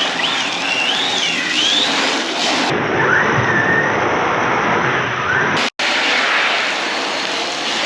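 Arrma Big Rock 6S RC truck's brushless motor whining, rising and falling in pitch with the throttle, over a steady hiss. The sound cuts out for a moment about three-quarters of the way through.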